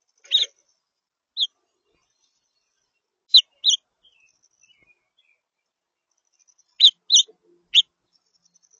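Songbird calls: short, high chirps, two single notes then a pair and a group of three, with pauses between.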